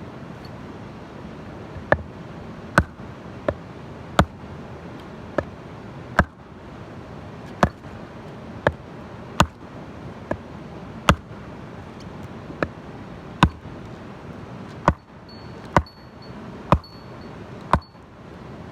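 A steady rush of falling water from a waterfall, with a series of about seventeen sharp, hard knocks, unevenly spaced roughly a second apart.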